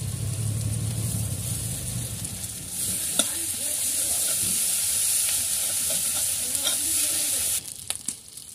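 Sliced onions and garlic paste sizzling steadily in hot mustard oil in a metal kadai, stirred with a metal spatula that scrapes the pan now and then. The sizzle drops away suddenly near the end.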